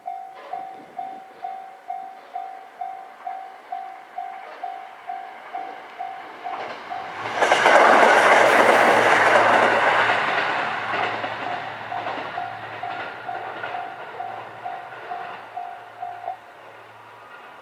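Japanese level-crossing warning bell ringing at about two to three strokes a second while a KiHa 127 diesel railcar passes close by. The train comes in loud about 7 seconds in, with wheels clattering over the rail joints and a low engine hum, then fades. The bell stops shortly before the end.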